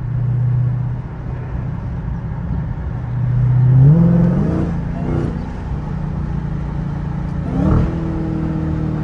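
Supercharged 6.2-litre HEMI V8 of a Dodge Hellcat Redeye heard from inside the cabin while driving. The engine note climbs under acceleration about three seconds in, drops back, runs steadily at cruise, and rises briefly again near the end.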